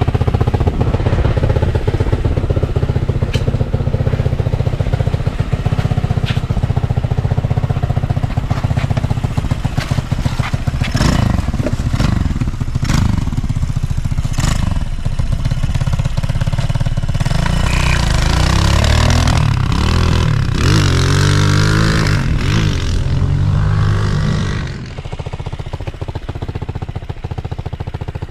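A four-wheeler's 250 motorcycle engine running at a steady idle, then revving up and down repeatedly in the second half. It gets suddenly quieter near the end.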